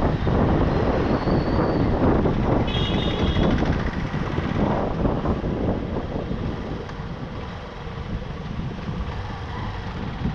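Riding through town traffic on a motorcycle: a steady rumble of engines and road noise mixed with wind on the microphone, easing off somewhat in the second half. A brief high-pitched tone sounds about three seconds in.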